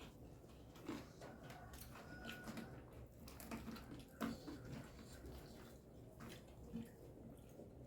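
Faint splashing water with scattered small clicks and knocks, as something is washed by hand.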